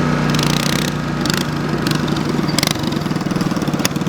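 Mini bike's Predator 212 single-cylinder four-stroke engine running at a steady speed, with a few sharp knocks or clatters scattered through it.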